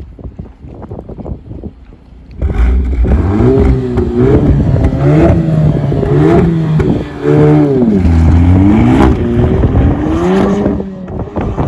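2018 VW Golf R's turbocharged 2.0-litre four-cylinder through a Borla valved cat-back exhaust, accelerating hard from about two seconds in, its pitch climbing and dropping several times.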